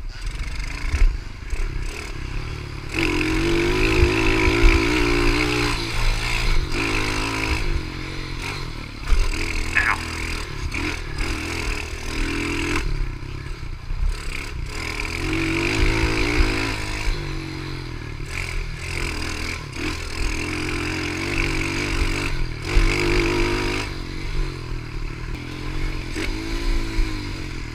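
Pit bike engine revving up and down over and over as the bike is ridden hard, its pitch climbing and dropping again every few seconds.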